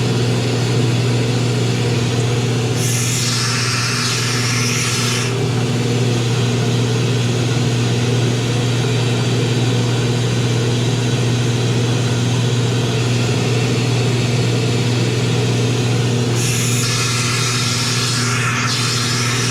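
Spray gun washer running with a steady mechanical hum, while a spray gun is cleaned in it. Two bursts of hissing spray a few seconds long, one about three seconds in and one near the end.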